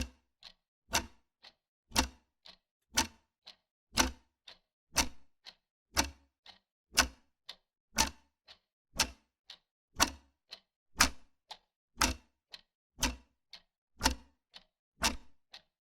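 Wall clock ticking steadily: a sharp tick every second with a softer tick about halfway between.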